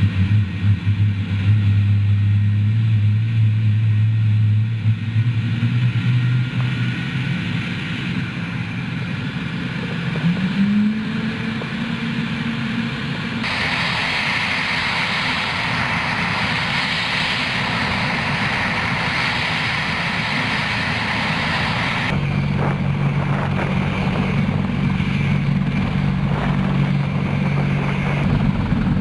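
Helicopter turbine and rotor noise: a loud, steady mechanical drone whose character changes abruptly twice as different footage is spliced together.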